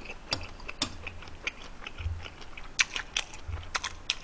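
A person chewing a mouthful of gochujapchae (stir-fried shredded pork and peppers) close to the microphone: a run of wet mouth clicks and smacks, with a few soft low thumps.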